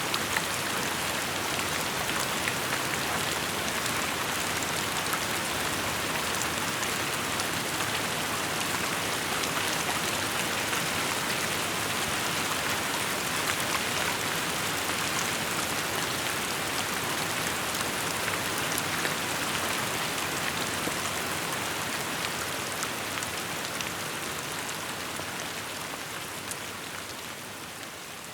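Steady rain falling, a dense patter of drops, growing somewhat quieter near the end.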